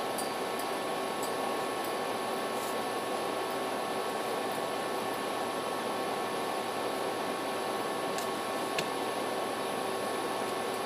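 Steady room noise: an even hiss and hum like a fan or air conditioner, with faint steady tones and a small click about nine seconds in.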